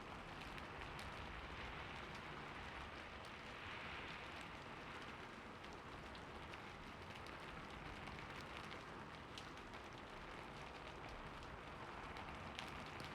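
Soft rain falling steadily: an even hiss with scattered drop ticks.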